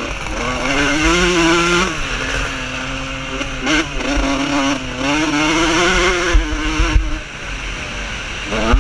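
Vintage motocross motorcycles racing, engines revving hard and rising in pitch, then dropping as they change gear, over and over. The sound dips about seven seconds in before an engine revs up again near the end.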